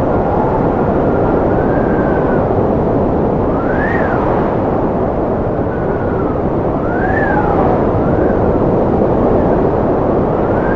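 Strong wind blowing with a steady rushing noise, over which a howling whistle rises and falls in pitch several times.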